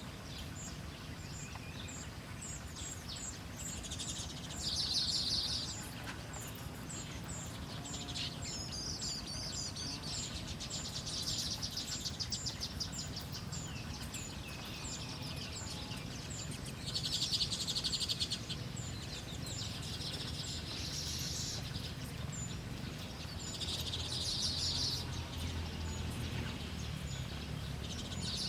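Small songbirds calling: short high chirps repeated about twice a second, broken every few seconds by bursts of rapid, buzzy chattering a second or two long. A steady low rumble of background noise runs underneath.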